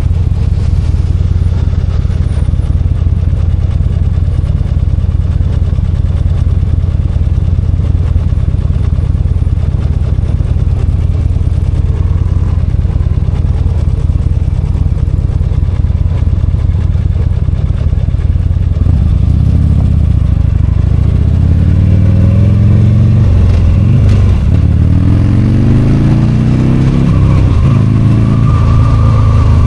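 V-twin motorcycle engine running at a steady, even speed, then in the last third its note rises and falls several times as the rider opens and closes the throttle.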